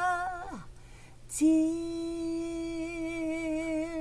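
A woman singing unaccompanied. A held note ends in a falling slide, she takes a quick breath, and then she holds a long note with vibrato.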